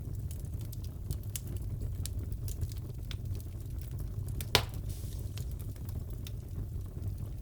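Fireplace crackling: a steady low rumble with scattered sharp crackles and one loud pop about four and a half seconds in.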